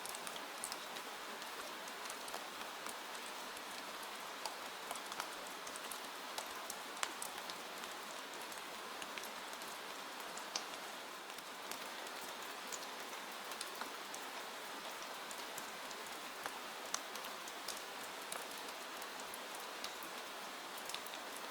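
Steady rain, an even hiss, with many scattered sharp clicks throughout.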